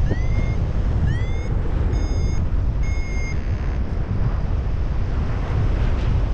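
Strong wind rushing over the microphone, with a paragliding variometer giving four short beeps about a second apart: the first two glide upward in pitch and the last two hold steady. A vario beeps like this to signal rising air.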